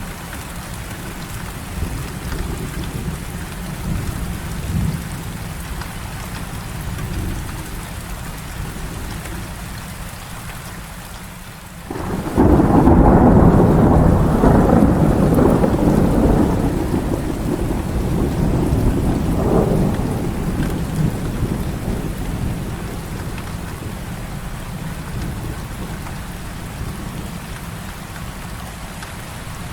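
Heavy rain falling steadily. About twelve seconds in, a loud thunderclap breaks in suddenly and rumbles on for several seconds before fading back under the rain.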